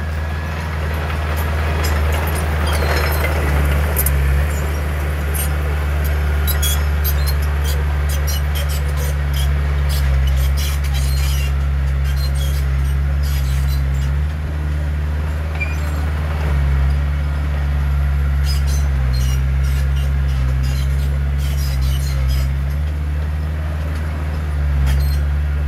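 Heavy diesel earthmoving machinery running steadily, a deep engine drone with many scattered clicks and rattles over it.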